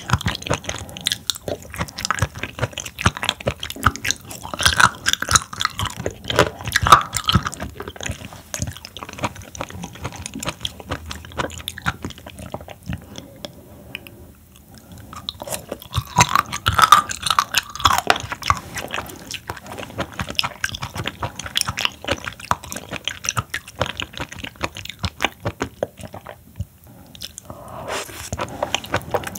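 Close-miked chewing and biting of raw seafood sashimi: dense wet, crunchy clicks in flurries, busiest a few seconds in and again past the middle, with short lulls between.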